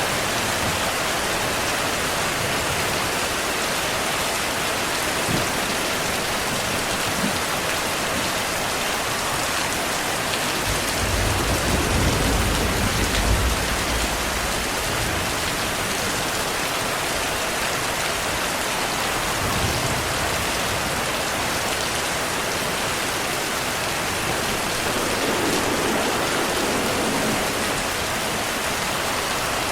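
Steady rain. About eleven seconds in, a low rumble of distant thunder swells for around three seconds.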